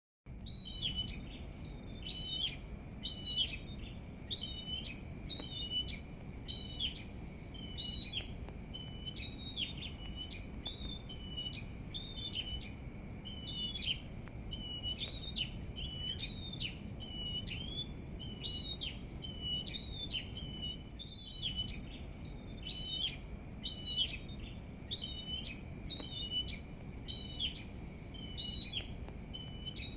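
Small birds chirping in a steady, unbroken series of short, high notes, somewhat more than one a second, over a low background rumble.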